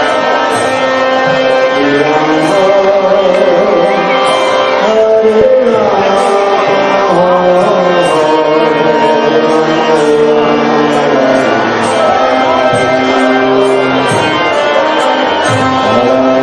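Indian devotional music: singing over long held instrumental notes, with a steady beat of high cymbal strikes and drum.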